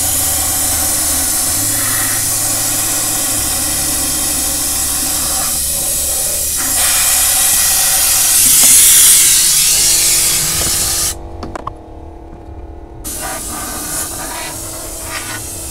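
Compressed air hissing from a blow gun, blowing the water out of a flooded headlight housing: one long blast that swells and then cuts off suddenly about eleven seconds in, followed after a short pause by a second, quieter blast.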